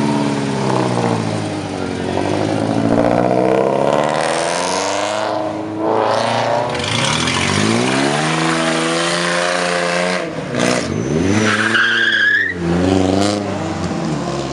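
A car engine revved hard several times, its pitch climbing and dropping with each rev. A short, high-pitched squeal rises near the end.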